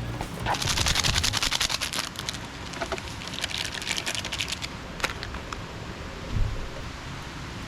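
Nylon camping tarp fluttering rapidly in the wind, making a fast rattling snap in two gusts of about two seconds each.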